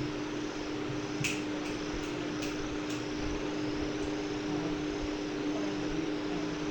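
Steady mechanical hum, like a running fan or air conditioner, holding one low tone over a hiss. About a second in, five short, sharp high-pitched ticks come in quick succession over two seconds.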